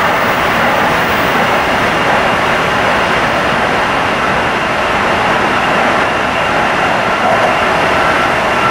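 Steady running noise of a Tsukuba Express train heard from inside the passenger car at speed, an even rush with a faint steady whine coming in near the end.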